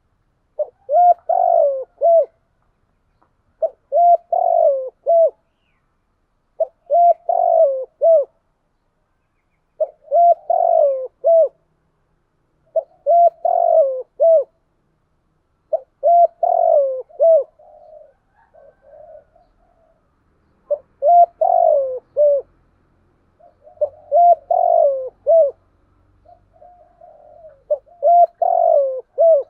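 Spotted dove cooing: a loud phrase of several notes repeated about every three seconds, nine times, with fainter notes between some of the later phrases.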